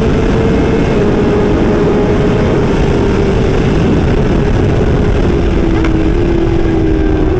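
Superbike engine running hard at high speed, its note held high and easing slowly lower, under heavy wind rush on the microphone.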